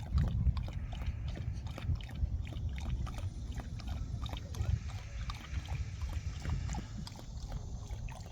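Wind rumbling and buffeting on the microphone, with scattered small clicks and taps over it.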